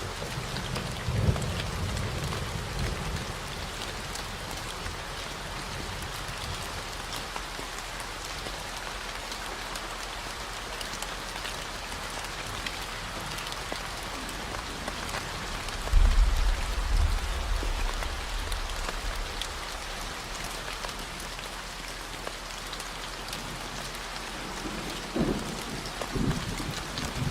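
Steady rain falling, with low rolls of thunder about a second in, a louder one a little past the middle, and another near the end. A steady 40 Hz gamma-wave tone hums underneath.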